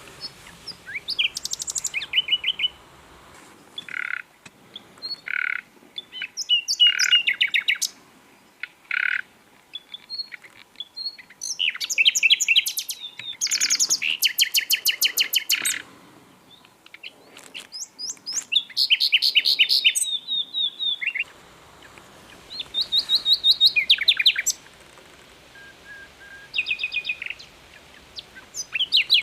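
Common nightingale singing a string of varied phrases with short pauses between them. Fast repeated trills and chirps alternate with slow, pure whistled notes.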